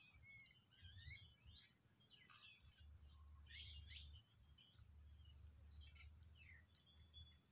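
Faint birds chirping, a scattering of short calls, over a steady high-pitched whine and a low rumble.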